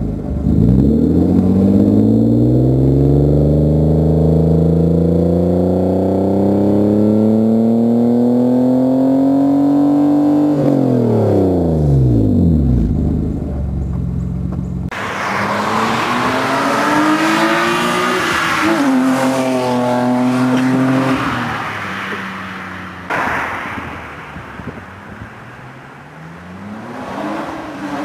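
1995 BMW M3's straight-six through a UUC exhaust with an Active Autowerke track pipe, accelerating hard: the engine note climbs steadily for about ten seconds, then falls away. After a sudden change about fifteen seconds in, the engine rises and holds with more road and wind noise. It climbs again near the end.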